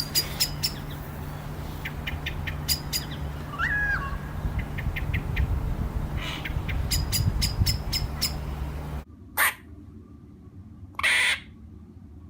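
Animal calls: sharp, repeated high chirps and clicks over a low rumble, with one short gliding whistle. About nine seconds in the sound cuts to a quieter recording with a few short squeaky calls.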